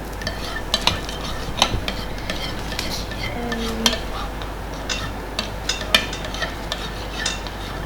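A metal utensil stirring and mixing in a bowl, with irregular clicks and taps against the bowl.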